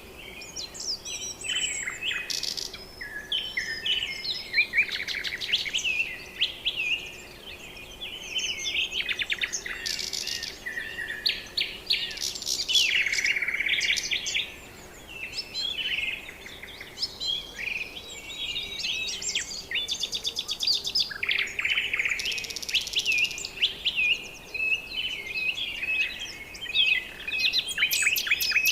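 A dense chorus of many birds calling at once: overlapping chirps, whistles and rapid trills, with no pause.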